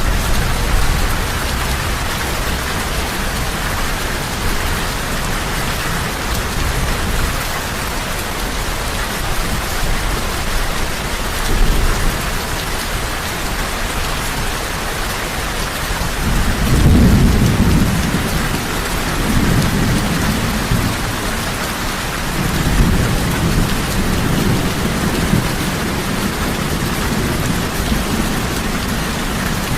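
Heavy rain falling steadily, with low rolling thunder rumbling at the start and again through the second half.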